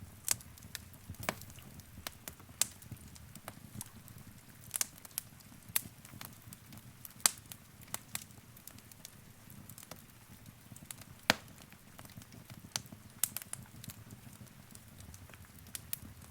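Wood fire in a fireplace crackling: irregular sharp pops and snaps over a low, steady rumble of burning.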